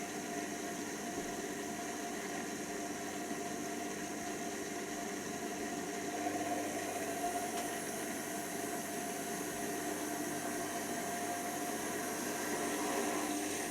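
Hoover Nextra washer dryer running: a steady motor and fan hum with a whirring hiss and several constant tones, rising a little in level about six seconds in and again near the end.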